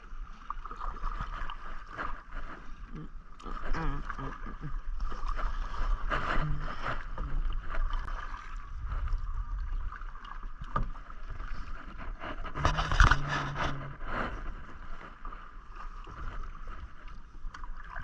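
Kayak paddling: paddle blades dipping and splashing in the water, with scattered light knocks and drips, loudest about thirteen seconds in.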